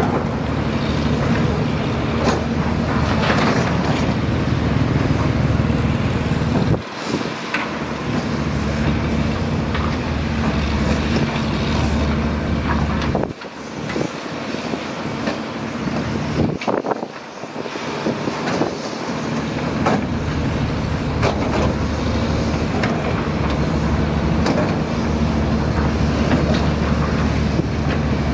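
Heavy earthmoving machine's diesel engine running steadily, with scattered metallic clanks and knocks. The sound drops out briefly a few times.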